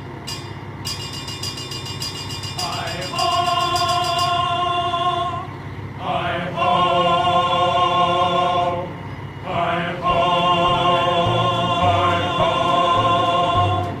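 Fire engine air horns sounding three long chord blasts, each sliding up in pitch as it starts, over the engine's low rumble.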